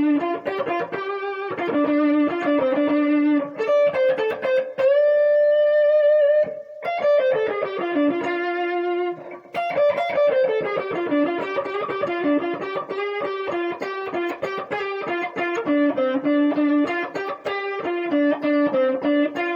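Guitar playing a blues solo lick in quick picked notes, with a note held for about two seconds partway through and several phrases that slide downward in pitch.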